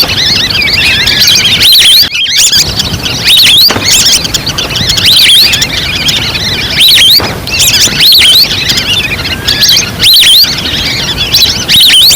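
Wild duck lure call recording playing loud: a dense chorus of high, looping whistled duck calls. The calls swell into a louder burst about every second and a half.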